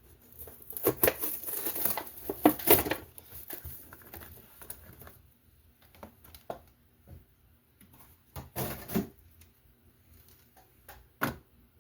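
Cardboard and plastic toy packaging of a Hot Wheels Monster Jam Grave Digger truck being opened by hand: crinkling and tearing, heaviest in the first three seconds, then scattered rustles and clicks.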